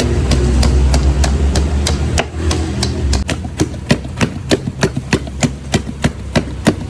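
Pestle pounding and crushing fruit in a mortar for rujak bebek, in even strokes about three a second. A low engine hum runs under the first three seconds and then stops.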